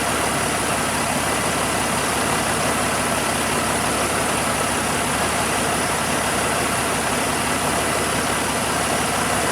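Caterpillar 3406C inline-six diesel engine running steadily.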